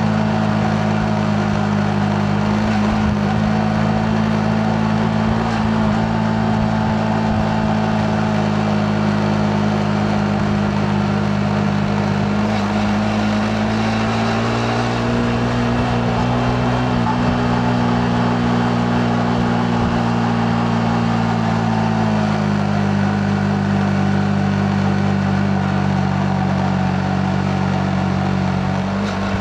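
Yamaha MT-15's single-cylinder engine running steadily under way, its pitch rising a little about halfway through, holding, then dropping back near the end, with road and wind noise beneath it.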